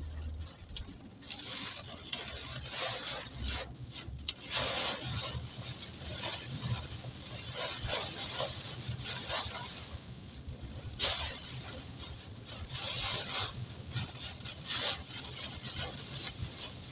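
Heavy storm rain lashing a moving car, heard from inside the cabin. Surges of rain hiss come and go every second or two over a low, steady rumble of engine and tyres.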